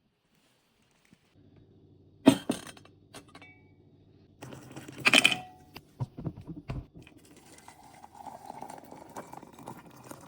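Hard objects clinking and knocking. There are two loud strikes, about two and five seconds in, each leaving a brief high ring, then a few smaller knocks and a softer rustling stretch near the end.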